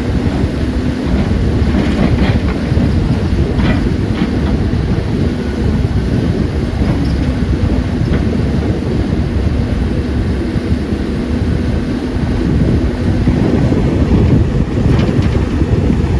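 Caterpillar 320D excavator's diesel engine running steadily under working load with a low hum. A few short clanks and scrapes come about 2 s in, around 4 s, and near the end, as rock knocks against the bucket.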